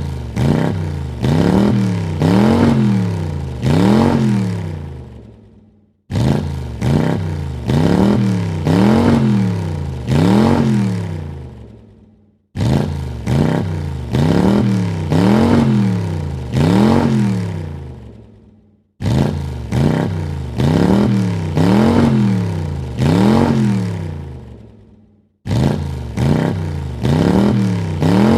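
A car engine being revved in short blips: each burst starts suddenly, then three or four quick revs rise and fall in pitch before the sound fades away. The same few-second rev sequence repeats about every six and a half seconds, five times.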